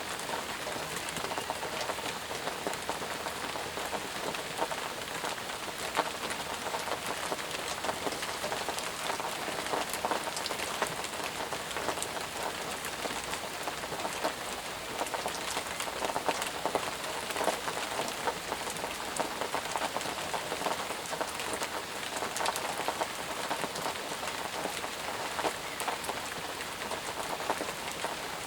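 Steady heavy rain falling on leaves and ground, an even hiss dotted with many close drop splashes.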